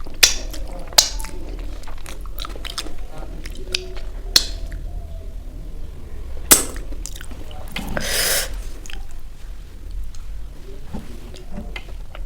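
Close-miked eating sounds: a person chewing momo dumplings, with a few sharp mouth or utensil clicks and a short hiss about 8 seconds in.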